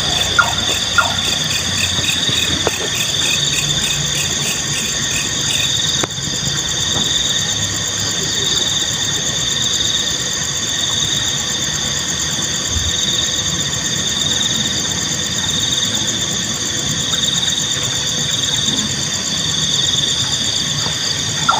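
A steady, continuous chorus of crickets and other night insects, shrill and unbroken. Within the first second a nightjar gives two or three short, sharp calls.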